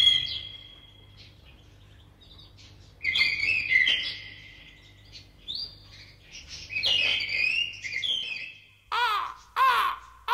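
Bird chirps and trills coming in several short bursts with quiet between them. Near the end there are a few short whistled calls that rise and fall.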